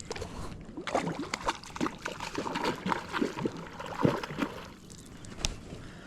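Water trickling and splashing with irregular small knocks and taps.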